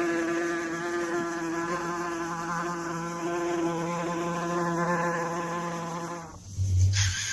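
A flying insect's wings buzzing in a steady low drone, which stops about six seconds in. Near the end a different sound cuts in with a low thud and a hiss.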